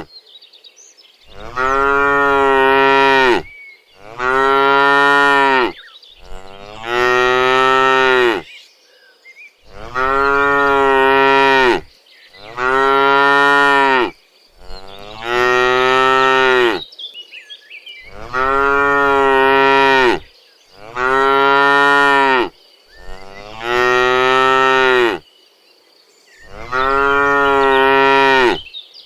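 Cow mooing over and over: about ten long moos of roughly two seconds each, held at a steady pitch, with short pauses between them.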